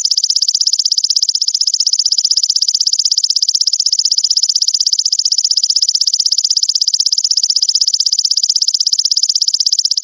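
Belalang mas grasshopper singing: a loud, steady, high-pitched trill of very rapid even pulses that goes on without a break.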